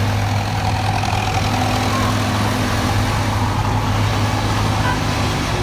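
Heavy truck engine running steadily on the climb, a constant low hum with no change in level.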